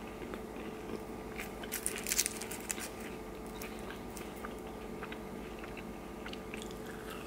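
Close-up eating sounds: crinkle-cut fast-food fries picked off a paper wrapper and chewed, with a cluster of crisp crackles about two seconds in, then a few scattered clicks. A faint steady hum runs underneath.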